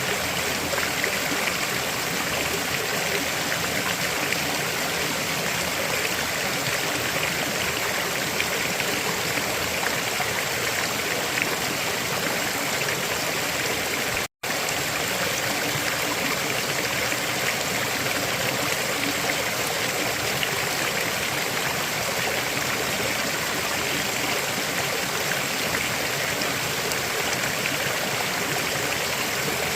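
River water flowing over rocks, a steady rushing with a brighter hiss on top. The sound cuts out for a split second about halfway through.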